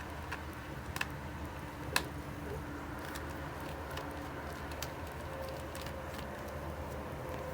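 Screws being backed out of a laptop's bottom panel with a small screwdriver: scattered light clicks and ticks, two sharper ones about one and two seconds in, over a steady low hum with faint held tones.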